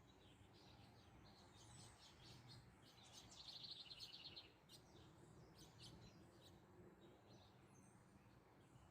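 Faint birdsong: scattered short high chirps, with a rapid trill lasting about a second about three and a half seconds in.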